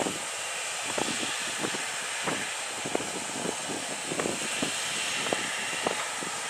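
Steady hiss of a Boeing 737 cabin on the ground as the airliner taxis or waits, with scattered light knocks and rattles throughout.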